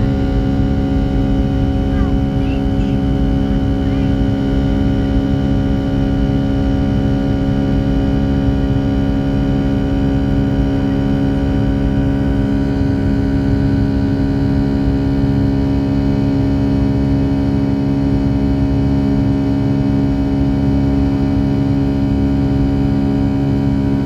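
Boeing 757-200's jet engines heard from inside the passenger cabin: a loud, steady hum and drone that holds the same pitch and level throughout.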